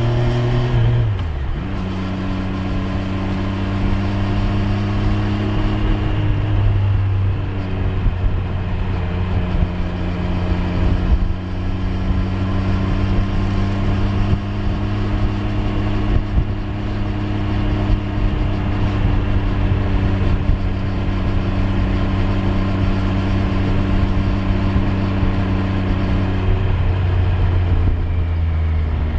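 Triumph Street Triple 765 R's three-cylinder engine running at a steady cruise under way. Its pitch falls about a second in and shifts again near the end.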